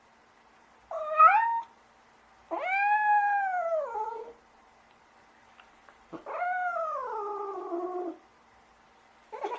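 Domestic cat meowing three times: a short rising meow, then a longer arching one, then a long meow that falls in pitch.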